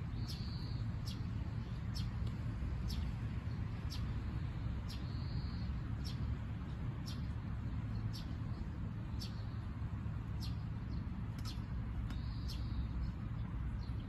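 Birds chirping: short high chirps repeating every half second to a second, with three longer, softer calls mixed in, over a steady low rumble.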